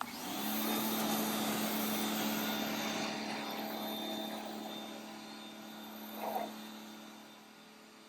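Pressure washer kicking on suddenly and running with a steady hum, its water jet hissing as it sprays the truck's sail panel and rear wheel well. The spray noise fades off gradually in the second half.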